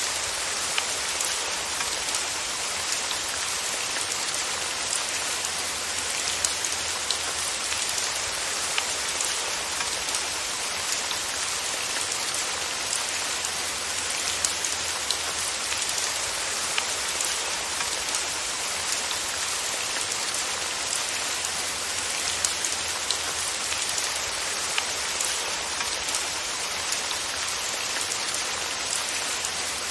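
Steady rain falling on a surface, an even hiss with many individual drops ticking sharply throughout.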